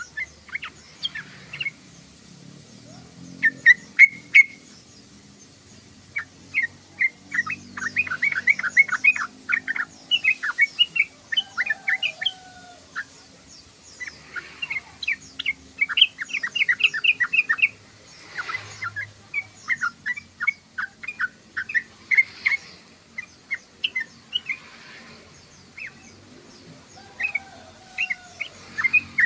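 Yellow-vented bulbul (trucukan) chattering: repeated runs of quick, short notes in rapid bursts, separated by brief pauses. There are a few lower sliding calls mixed in.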